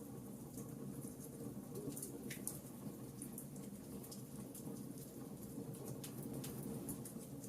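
Wood fire crackling in a fireplace: irregular sharp snaps and pops of burning wood over a low, steady rush.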